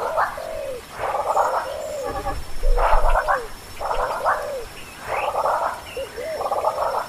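Repeated animal calls, about one a second, each a quick rattling burst of pulses with a short gliding note underneath it.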